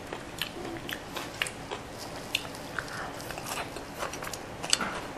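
Crunching and chewing a mouthful of shredded daikon radish: irregular crisp crackles and clicks.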